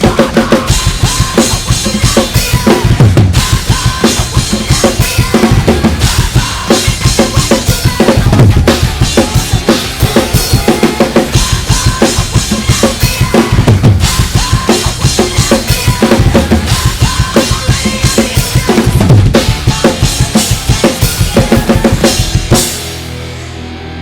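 Drum kit played fast and hard over a metal song's backing track: dense, driving bass drum and snare hits with cymbals. Near the end the drumming stops, leaving held low notes from the track.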